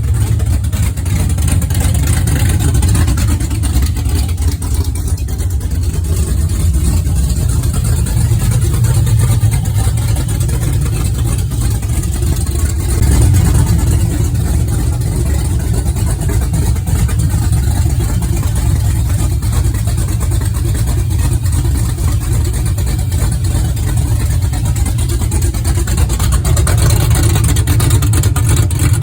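A vehicle engine running steadily and loudly, with a deep low-end sound throughout and a slight swell about halfway through.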